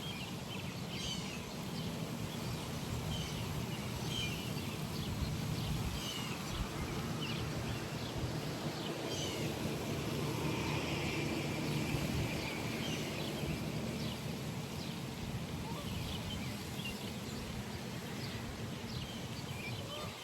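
Outdoor pond ambience: small birds chirping at scattered moments over a steady low rumble.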